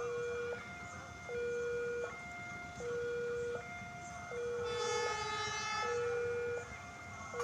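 Electronic railway level-crossing warning alarm cycling steadily between a low and a higher tone, each held about three-quarters of a second. About four and a half seconds in, a train horn sounds once for about a second and a half over it.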